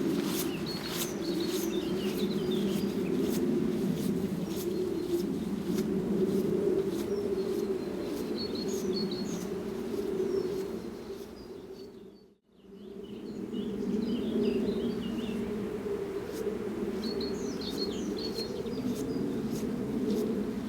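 Wild birds chirping and singing in short scattered phrases over a steady low drone. Everything fades out briefly and comes back about twelve seconds in.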